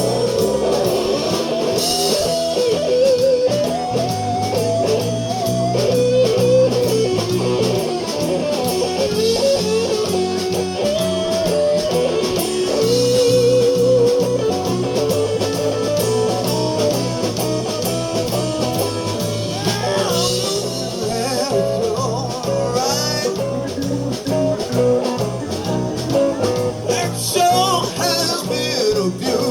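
Live blues-rock band playing, with guitar to the fore over a steady bass line.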